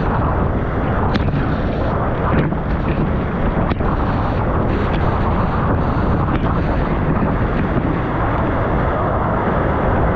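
Waterfall roaring up close: a loud, steady rush of falling water, with a few faint short clicks on top.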